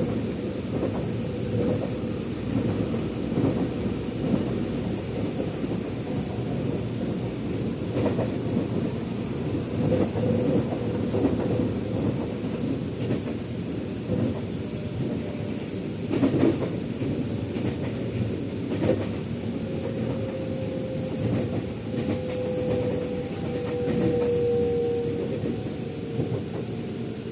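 Metro train running, heard from inside the carriage: a steady rumble with occasional knocks from the wheels over the rails. A faint whine comes in around the middle and sinks slightly in pitch toward the end.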